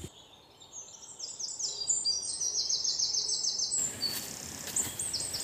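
A bird calling a rapid run of short, high, falling notes, several a second. About four seconds in the background turns to a steady outdoor hiss, and a couple more high chirps follow.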